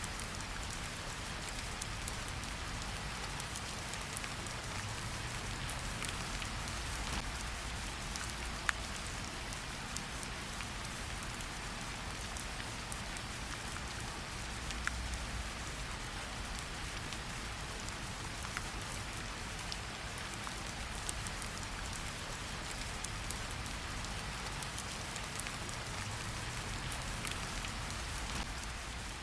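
Steady rain falling, an even hiss with now and then a single sharper drop tick.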